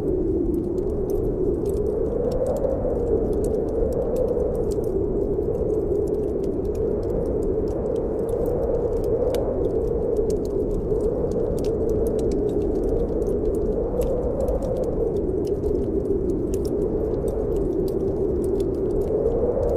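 Snowstorm wind blowing steadily, with a low howling tone that slowly rises and falls in pitch. Over it, a wood fire in a fireplace crackles with frequent small, sharp pops.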